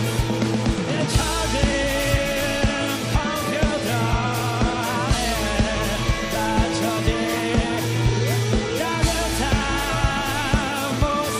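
A rock band playing live, with drums keeping a steady beat under guitar and bass. From about three seconds in, a singer's voice wavers over it.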